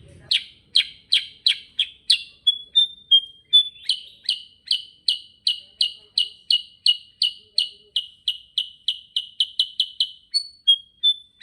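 Kutilang sutra (silver-eared mesia) singing a long unbroken roll of sharp, quickly falling chip notes, about three a second. Short steady whistled notes are slipped in twice, and the notes come a little faster near the end.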